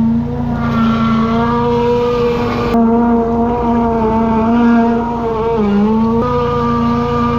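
An engine running steadily with a slight wobble in pitch, changing abruptly about three seconds in and again about six seconds in.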